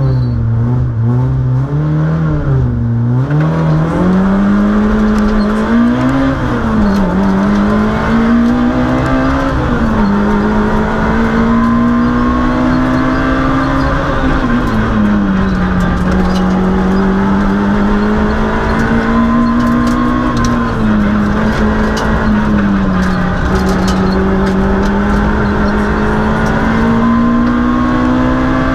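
Citroën Saxo Group A rally car's four-cylinder engine heard from inside the cabin at full stage pace. It revs up hard, its pitch climbing steadily and then dropping sharply at each gear change or lift for a bend, several times over.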